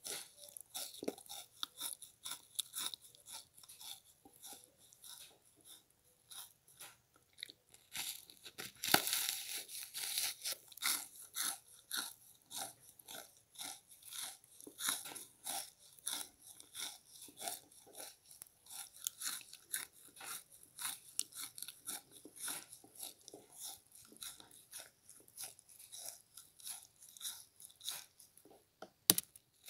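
Frozen pink bath sponge being bitten and chewed, close up: a rapid string of crisp, icy crunches, densest about nine seconds in, with one sharp click near the end.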